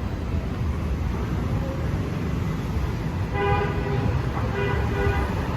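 City street traffic rumbling steadily, with a vehicle horn sounding two short toots about a second apart in the second half.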